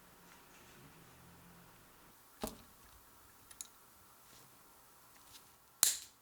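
A few sharp clicks over quiet room tone: one about two and a half seconds in, a fainter tick about a second later, and the loudest near the end.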